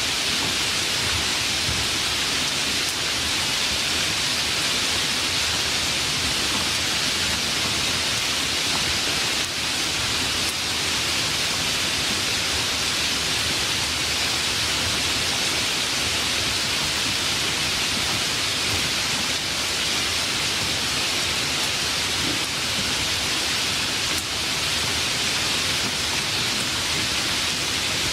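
Steady rainstorm: an even, unbroken hiss of heavy rainfall that holds the same level throughout.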